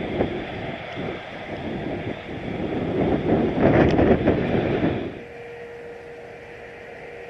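Strong gusty wind buffeting the microphone in heavy rushes, which drops off abruptly about five seconds in to a quieter rush with a faint steady hum.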